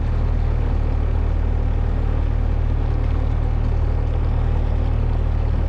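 Boat motor running steadily: a constant low drone with a noisy wash above it.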